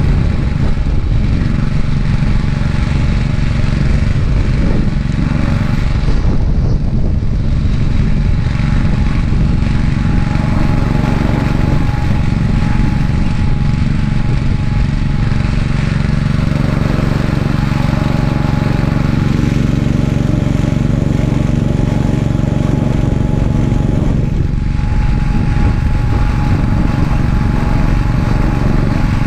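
Gravely 430 tractor's engine running steadily, driving its 38-inch snowblower attachment.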